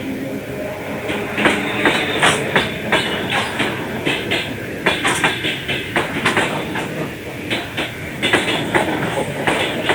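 Train wheels clattering over rail joints: a dense, irregular run of clicks and knocks over a steady rumble.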